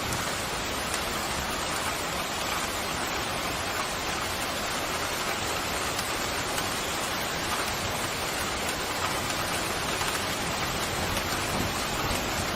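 Pouring rain: a steady, even hiss of heavy rainfall with no breaks or thunder.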